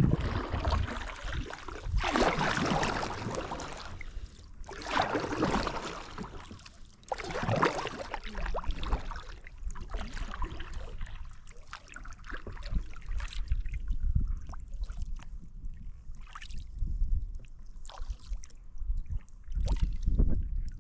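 Kayak paddle strokes swishing and splashing in the water, one about every two to three seconds, fainter toward the end, over a low rumble.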